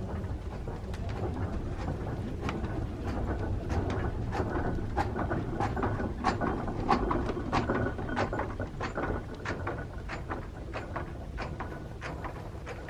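A train moving slowly on rails: a low rumble with many irregular clicks and knocks, thickest midway through and easing off near the end.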